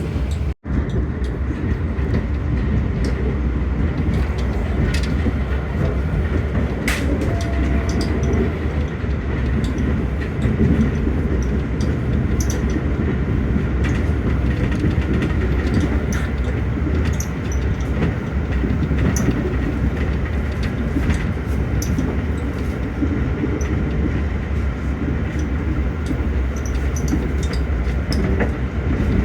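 Passenger train running at speed: a steady rumble with scattered clicks and knocks of the wheels and coach. The sound drops out for an instant just after it begins.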